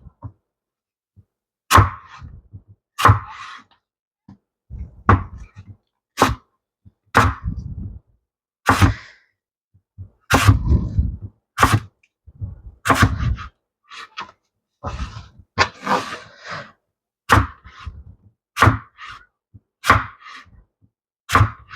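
Knife slicing an apple, knocking on the cutting board about once a second, irregularly, some strokes with a short crunch through the fruit.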